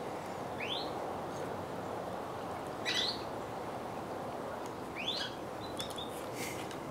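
A bird chirping: three short rising chirps about two seconds apart, with a few brief higher notes near the end, over a steady background hiss.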